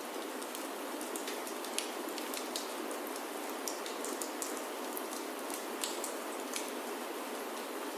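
Steady rain falling on a roof, with irregular sharp crackles and pops of a wood fire in a fireplace scattered through it.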